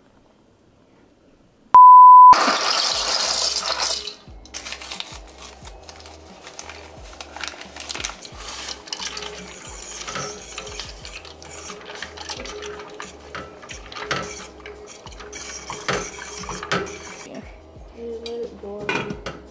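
About two seconds in, a loud steady beep sounds for half a second, followed by a short burst of hissing. After that a utensil scrapes and clinks around a stainless-steel saucepan as milk, browned ground beef and seasoning powder are stirred together.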